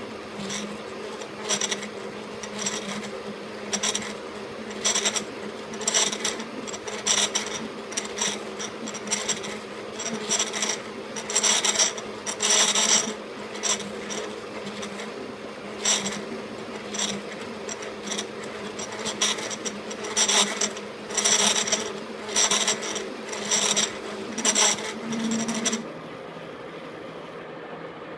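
KART E1N metal lathe running with a steady hum, broken by irregular bursts of cutting noise. The bursts stop about two seconds before the end and the hum drops.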